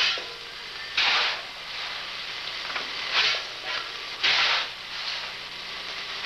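Slow stationary steam engine running, its exhaust letting out hissing puffs of steam in an uneven rhythm: a loud puff every second or so, with softer ones between, over a steady low hum.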